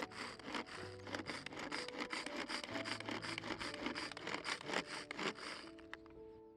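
Rapid, even strokes of a blade working against wood, about five or six a second, that stop shortly before the end; soft background music plays underneath.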